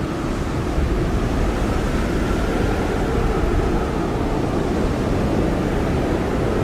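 Blizzard wind blowing hard in a steady roar, with a faint whistling tone that wavers slowly above it.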